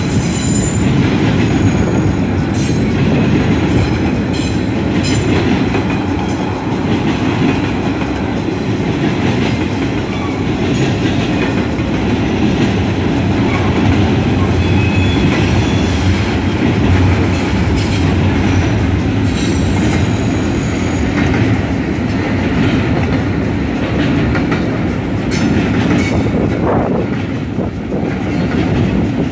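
Double-stack intermodal container train rolling past, a steady heavy rumble and clatter of freight-car wheels on the rails, with a brief high-pitched wheel squeal now and then.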